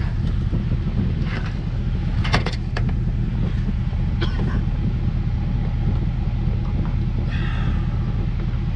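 A motor vehicle running: a steady low engine and road rumble, with a few short clicks about two seconds in.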